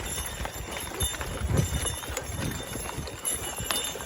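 Belgian draft horses' hooves plodding in an uneven rhythm of heavy thuds and knocks as the team pulls a plough.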